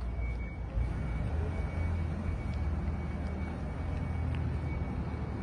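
Low, steady rumble of a car engine idling.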